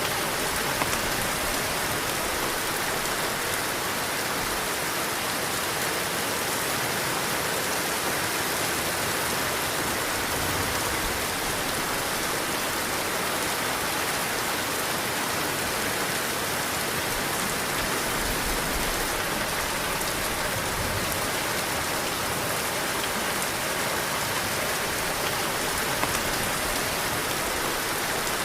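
Heavy rain falling steadily, a dense even hiss of drops, with a few soft low swells of wind.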